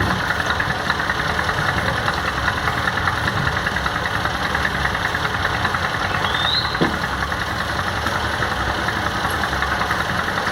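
An engine running steadily with a rapid clatter.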